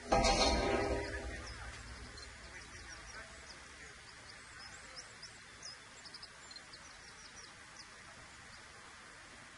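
A loud pitched sound starts sharply at the very beginning and fades away over about a second and a half. Small birds then chirp faintly and repeatedly over a steady low background hum.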